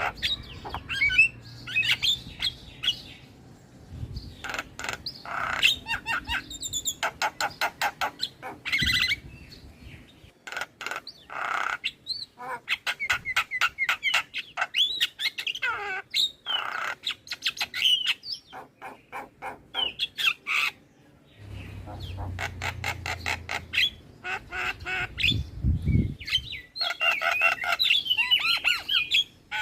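Javan myna (jalak kebo) singing a long, varied song. It mixes rapid chattering runs of short clicking notes with rising and falling whistles and harsh squawks, broken by a few brief pauses.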